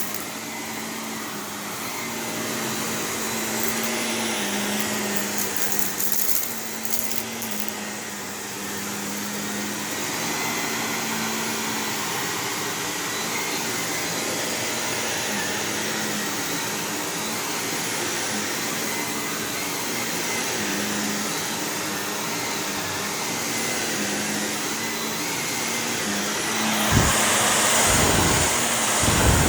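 Shark Navigator Lift-Away NV351 upright vacuum running steadily as it is pushed over carpet, its motor hum wavering slightly. Near the end it gets louder and harsher, with a few knocks.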